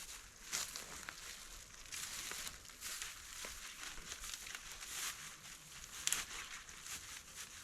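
Irregular rustling and crackling, a series of short dry scrapes and snaps with one sharper crack about six seconds in.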